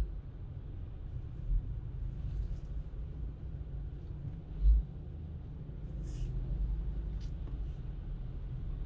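Car driving: a steady low road rumble with a few dull thumps, the strongest about halfway through, and a couple of faint ticks later on.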